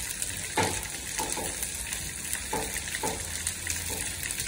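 Sliced onions and tomatoes sizzling in oil in a large kadhai, with a metal ladle scraping the pan several times as they are stirred.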